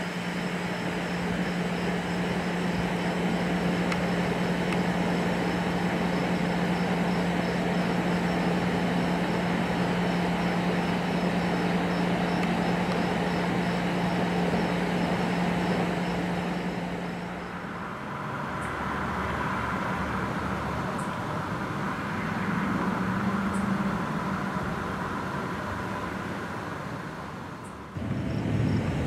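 Heavy thunderstorm rain, a steady rushing noise with a constant low hum under it. The sound changes abruptly about 18 seconds in and again near the end.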